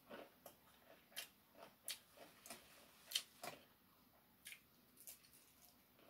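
Faint eating sounds: irregular mouth clicks and smacks of someone chewing fried chicken, about a dozen scattered through a few seconds.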